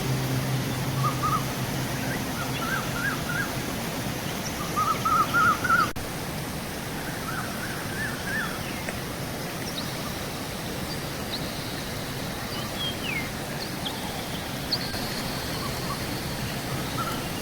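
River water rushing steadily, with birds chirping in short quick phrases that are loudest about five seconds in, and a few thin high whistles later on.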